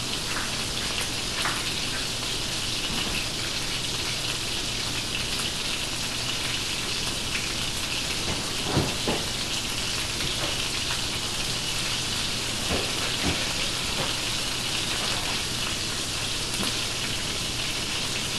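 Ground beef hamburger patties frying in a pan with a steady sizzle, with a few faint clicks about halfway through.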